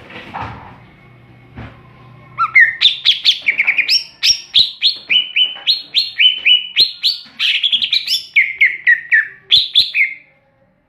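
Cucak ijo (green leafbird) in full song, a loud, rapid run of short whistled notes that begins about two seconds in and stops shortly before the end.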